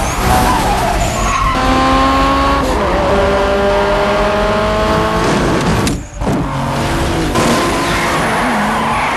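Racing car engines running at high revs. The pitch holds, then shifts every second or two, as if through gear changes, with a brief drop about six seconds in.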